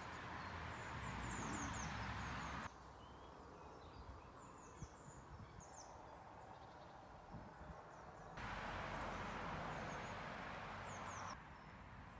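Small birds chirping and singing in short high phrases over a faint steady outdoor hiss and low rumble. The hiss steps up louder twice for a few seconds, starting and stopping abruptly.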